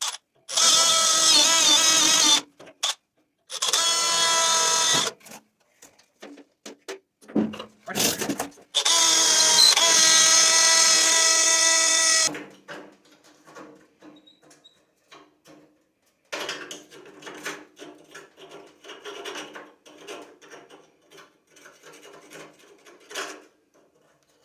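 Electric drill whining in three runs, the last and longest ending about halfway through, as it drills into the steel door hinge screws to take their heads off so the screws can be replaced. After that, a spell of quieter clicking and rattling of metal parts being handled.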